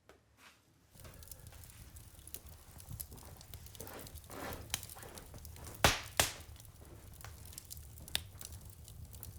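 Wood fire crackling and popping, with many small snaps and two sharp, loud pops about six seconds in. It starts suddenly about a second in over a low steady rumble.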